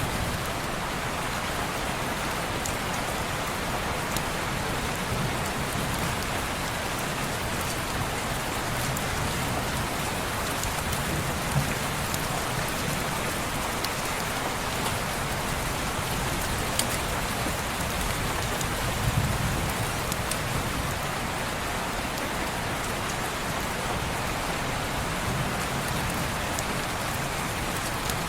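Steady rain falling on window glass: a continuous, even hiss with scattered faint ticks of drops and a soft low rumble swelling now and then.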